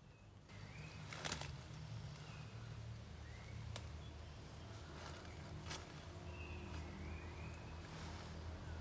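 Outdoor ambience: a few short rising bird-like chirps over a steady high-pitched hum and a low rumble, with occasional sharp clicks, the strongest about a second in.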